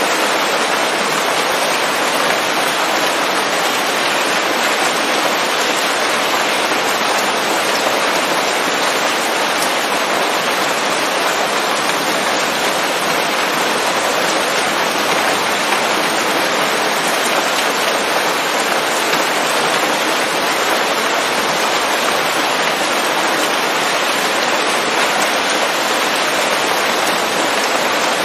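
Steady rain falling on forest leaves: a dense, even patter of many drops.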